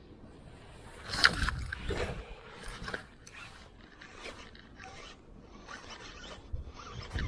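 A string of short, irregular scrapes and rubbing noises on a fishing kayak, the loudest a little over a second in.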